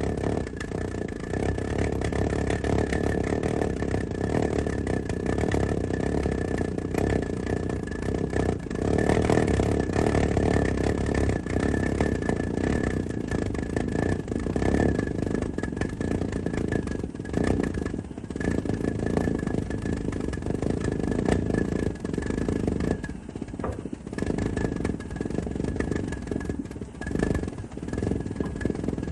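Homemade valveless pulse jet engine without a diffuser, running continuously on methyl hydrate (methanol) fuel: a loud, steady drone with a high tone held over it, faltering briefly about three-quarters of the way through.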